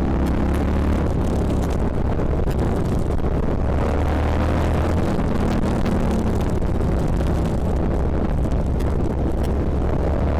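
Motorcycle riding on the open road: the engine runs steadily under a haze of wind noise on the action camera's microphone.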